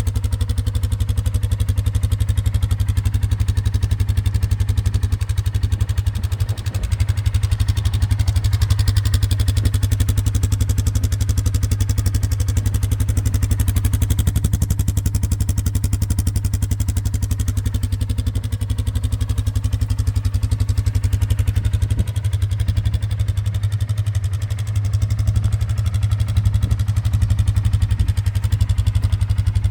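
2024 Polaris Sportsman 570 ATV's single-cylinder engine idling steadily through the stock exhaust shortly after a cold start, an even low pulsing run.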